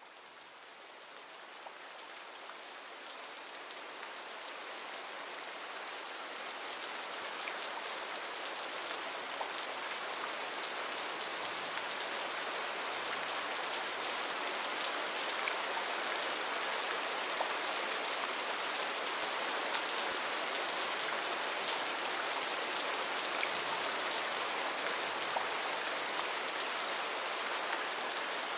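Steady rain falling, with scattered drops pattering. It fades in gradually over the first ten seconds or so, then holds steady.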